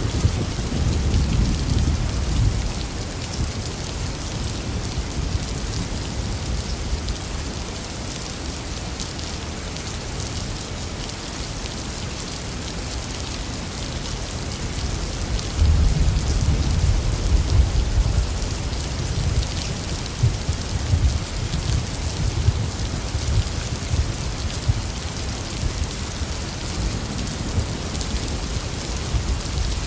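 Heavy rain falling steadily, with thunder rumbling twice: one rumble fading away in the first few seconds, and another breaking in sharply about halfway through and rolling on for several seconds.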